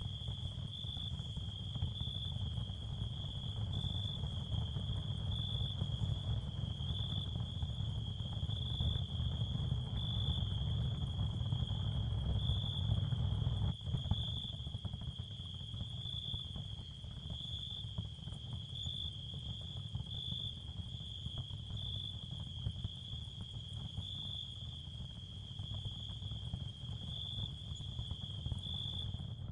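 Ambient nature bed of crickets chirring steadily in a high, gently pulsing tone over a constant low rumble. The bed dips for an instant about halfway through.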